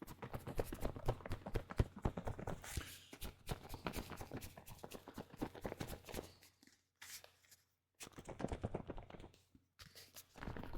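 Dense, close-miked crackling and clicking, many small irregular pops, with a few brief pauses about two-thirds of the way through.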